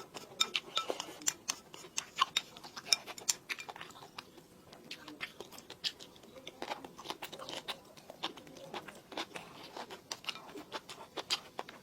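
A person chewing and crunching food close to the microphone: a quick, irregular run of sharp crunches and clicks.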